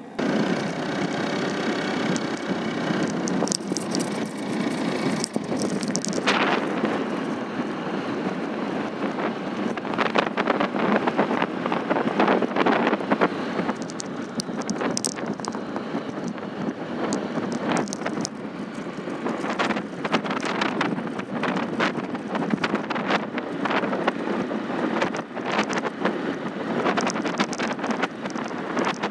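Wind buffeting the microphone in an open field: a steady rushing noise broken by irregular crackling gusts.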